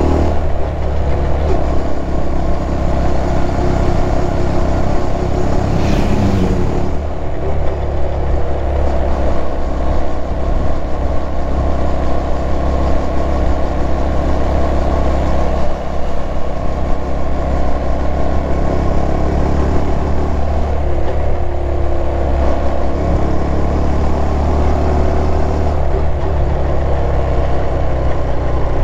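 Honda Super Cub 110's single-cylinder four-stroke engine running steadily while cruising, with wind and road noise. A brief extra noise cuts across about six seconds in.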